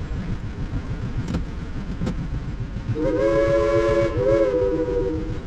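Steam locomotive's chime whistle blowing one long chord of several tones, starting about three seconds in and dipping briefly partway through, over a steady low rumble.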